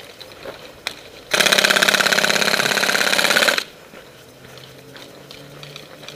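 Airsoft rifle firing one loud full-auto burst of a little over two seconds, a fast, even rattle of shots that stops abruptly.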